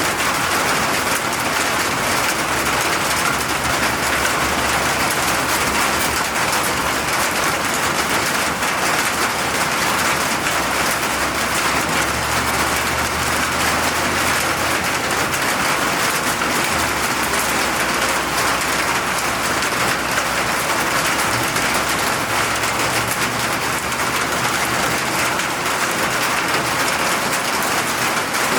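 Steady rain falling, a dense, even hiss of drops on surfaces. A faint low rumble comes and goes underneath in the middle.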